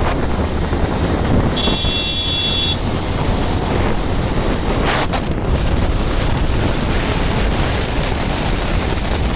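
Wind rushing over the microphone of a moving motorcycle, over steady traffic and road noise. A brief high-pitched tone sounds for about a second near the start, and a short click comes about halfway through.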